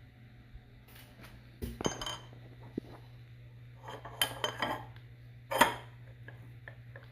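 Steel transmission parts and tools being handled, clinking and clanking against each other in three bursts: about two seconds in, again around four to five seconds, and a single loudest clank a little after five and a half seconds. A steady low hum runs underneath.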